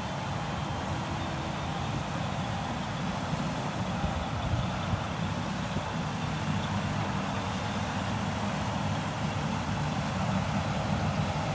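Heavy diesel engine running steadily under load, a constant low drone with no breaks.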